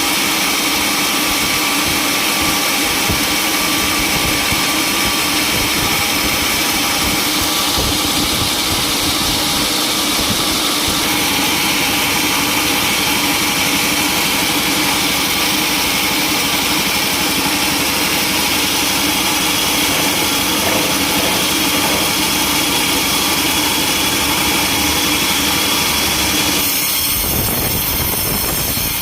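Sawmill saw and its engine running steadily with a constant hum. Near the end the sound changes and grows hissier as the blade starts cutting into wood.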